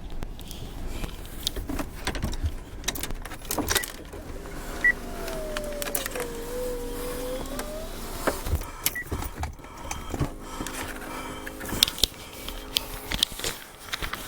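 A vehicle running, with repeated knocks and rattles throughout. In the middle a whining tone dips and rises again, and near the end a steady hum sets in.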